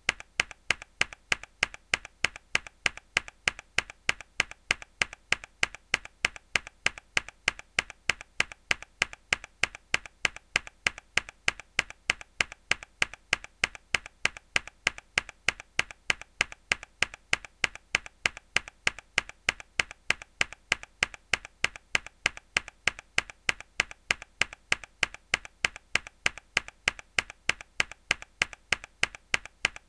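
A mechanical keyboard key pressed hard again and again, sharp clicks in an even rhythm of about three a second.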